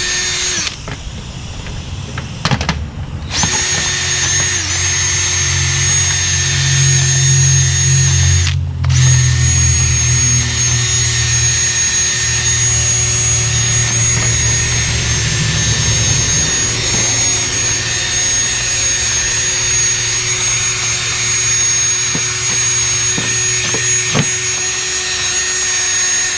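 A handheld electric power tool runs with a steady high motor whine. It cuts out and restarts briefly a few times. A low rumble rises while it bears on the work, strongest in the middle stretch.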